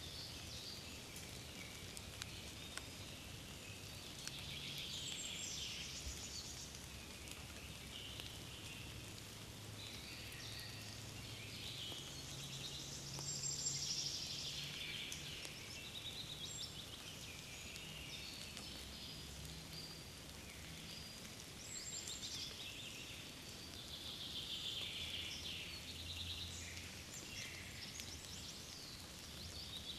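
Woodland songbirds singing, several birds' phrases overlapping throughout and loudest about halfway through, over a faint steady low hum.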